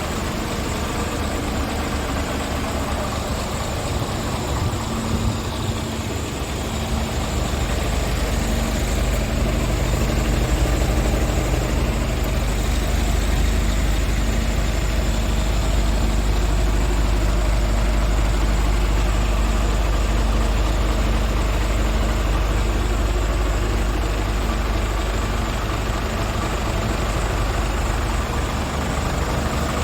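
Scania R450 tractor unit's 13-litre inline-six diesel engine idling steadily.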